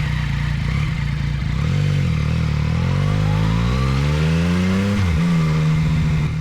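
Yamaha Tracer 900's three-cylinder engine running under acceleration. Its pitch climbs for a few seconds, drops sharply about five seconds in as it shifts up a gear, then holds steady.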